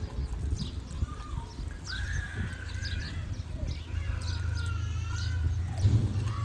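Birds calling: two drawn-out, wavering calls, one about two seconds in and a longer one about four seconds in, among many quick high chirps from small birds, over a steady low rumble.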